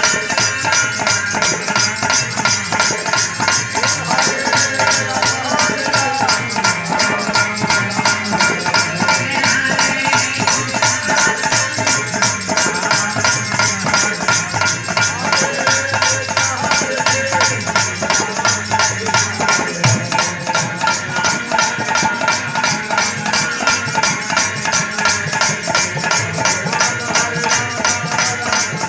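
Hari kirtan music: a melody carried over a fast, steady rhythm of high shaken percussion.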